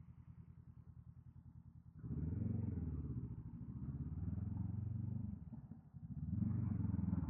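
Honda scrambler motorcycle engine idling with a low, even pulse, then about two seconds in it opens up sharply and pulls away. The engine note dips briefly and then climbs again near the end.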